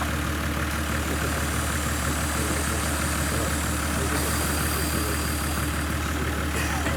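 Off-road 4x4's engine running steadily at low revs, a continuous low hum with no revving.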